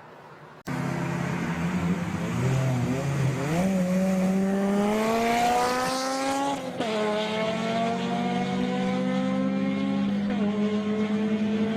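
Honda K20 inline-four engine pulling hard under acceleration. It starts suddenly just under a second in. Its pitch climbs steadily through a gear, drops sharply at an upshift about seven seconds in, climbs again, and drops at another upshift near ten seconds.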